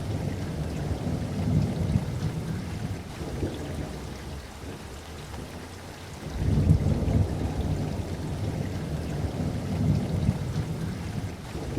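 Steady rain with low rolling thunder; the rumble eases off, then swells again about six seconds in.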